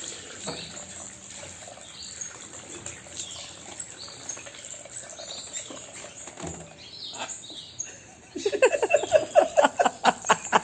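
Lory parrot giving short high chirps over a steady hiss. About eight seconds in comes a loud, rapid run of pulses, about six a second, lasting some two seconds.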